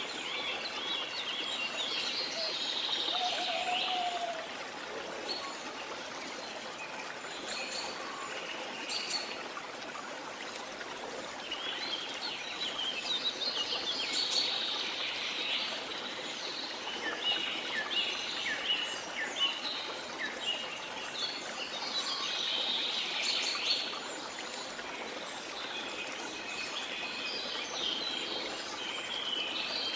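Rainforest ambience: birds chirping and trilling in bursts over the steady rush of a waterfall.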